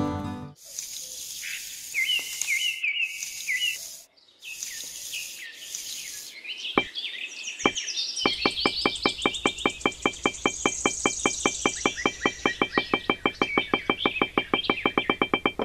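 Outdoor nature ambience: a few short descending bird chirps over light hiss, then a rapid, even train of high clicking chirps, about five a second.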